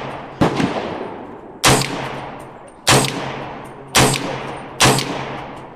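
300 Blackout rifle fired five times at a steady pace of about one shot a second, each shot sharp and followed by a long fading echo.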